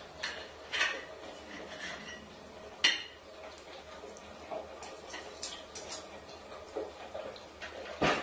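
A few sharp clinks and knocks, like dishes or cutlery being handled, scattered over low room noise; the loudest comes about three seconds in, with another near the end.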